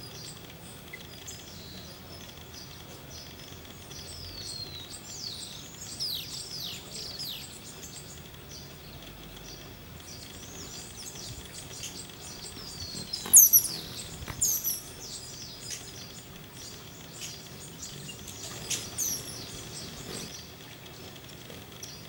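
Wild birds chirping and calling in forest ambience: many quick, high notes sliding downward, loudest in a cluster around the middle, over a faint steady high tone.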